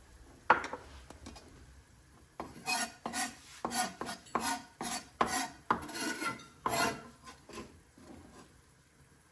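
A kitchen utensil scraping in a series of about a dozen rasping strokes, a little over two a second, after a single sharp knock; the strokes fade out near the end.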